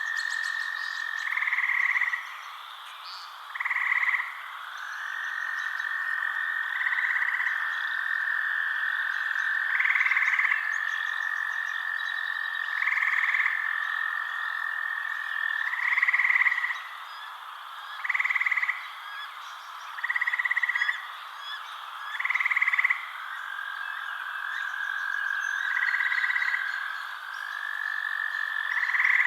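Frogs calling at night: a steady trilling chorus, with louder croaking calls of under a second each repeating about every three seconds.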